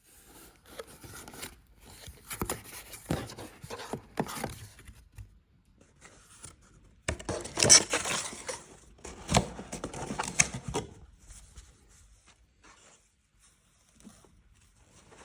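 Packaging being opened by hand: cardboard and paper scraping, rustling and tearing in irregular bursts, loudest in the middle and fainter near the end.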